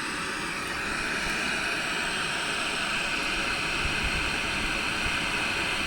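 Steady hiss of static from the speaker of a freshly switched-on 1982 RCA XL100 television receiving no signal.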